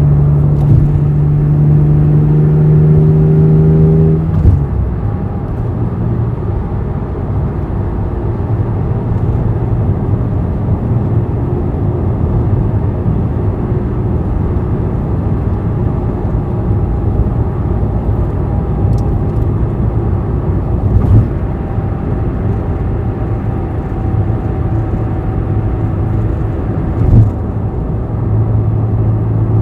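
Honda NSX V6 with an all-titanium aftermarket exhaust running, first with a steady even note. About four seconds in the note drops to a lower, rougher rumble, with a couple of brief knocks later on. The steady note comes back near the end.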